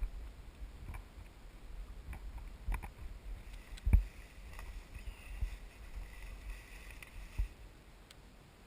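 Footsteps and rustling of a person walking through forest undergrowth, with scattered knocks and one sharp thump about four seconds in.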